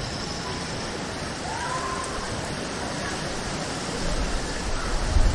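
Steady rain hissing, with a low rumble of thunder swelling near the end.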